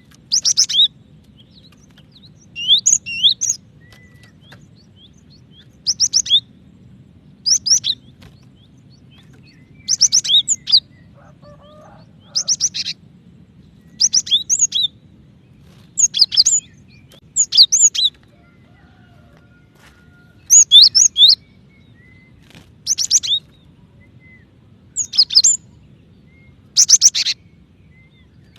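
Female cinereous tit (gelatik batu) calling: short bursts of a few quick high chirping notes, repeated about every two seconds. A faint low steady hum sits underneath.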